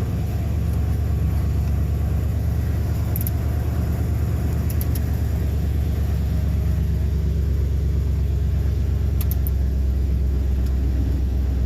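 Ford 5.4-litre V8 in a 2001 F250 pickup running at a steady idle.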